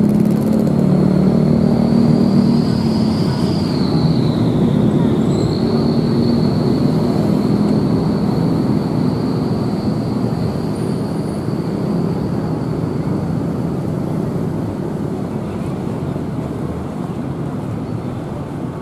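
Long-distance passenger train running away on a curve, its wheels rumbling over the rails and slowly fading. A thin, high, steady whine runs over it and dips in pitch briefly about four seconds in.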